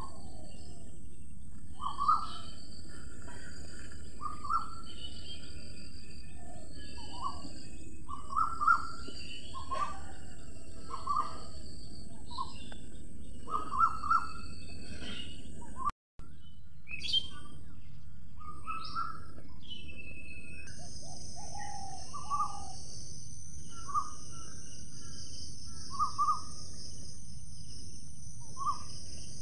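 Birds calling and chirping, short calls repeating every second or two, over a steady high insect drone; a second high insect drone joins about two-thirds of the way in. The sound cuts out for a moment just past halfway.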